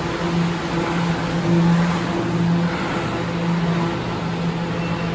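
Steady subway-station mechanical hum: a low droning tone with a fainter higher tone above it, over a constant rumbling hiss.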